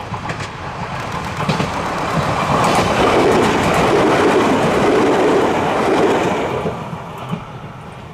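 Train passing by, wheels clacking over the rail joints, swelling to a loud rush in the middle and fading away near the end.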